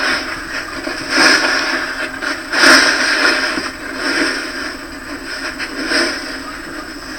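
Leaf litter rustling and crunching as it is scraped and pushed aside, in about four louder surges roughly every second and a half.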